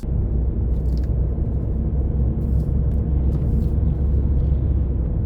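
Car driving at speed, heard from inside the cabin: a steady low rumble of engine and road noise that comes in abruptly at the start.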